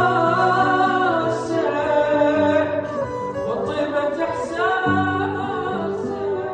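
Arabic song: a long, wavering melodic line with held notes over instrumental backing. Deep bass notes sound at the start and again about five seconds in.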